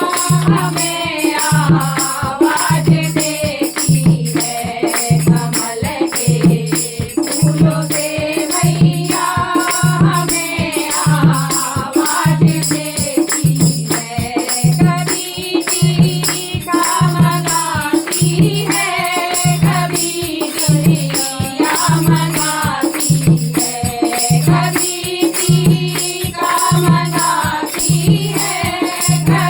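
Hindi devotional bhajan music: voices singing a melody over a steady low drumbeat about once a second, with a constant jingling of tambourine-like percussion.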